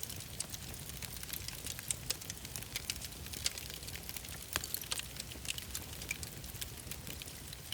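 Wood fire crackling: irregular sharp snaps and pops over a low steady rumble, with one louder snap about four and a half seconds in.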